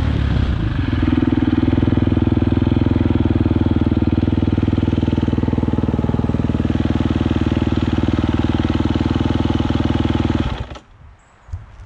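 Four-stroke single-cylinder dirt bike engine idling at a steady pitch, then shut off abruptly about ten and a half seconds in, followed by a few faint clicks.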